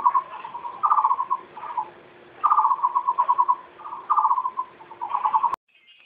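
A bird calling over and over, each call a short, fast pulsed trill that comes every second or so. The calls cut off abruptly near the end, leaving a faint, higher buzzing.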